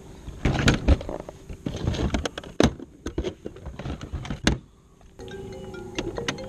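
Irregular knocks, clicks and rattles of gear being handled in a plastic fishing kayak. About five seconds in, background music starts.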